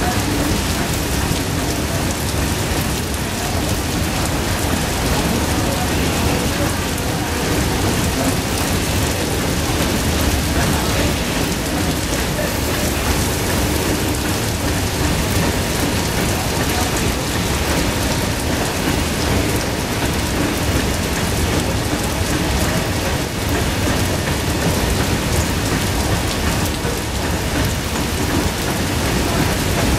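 Steady, loud rush of heavy monsoon rain and wind-blown waterfall spray, with a low rumble underneath from a long rake of BOXN freight wagons rolling past.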